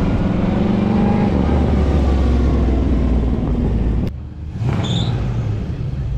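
Car engine running with a strong low exhaust note, which cuts off abruptly about four seconds in. A quieter engine sound with a brief high chirp follows.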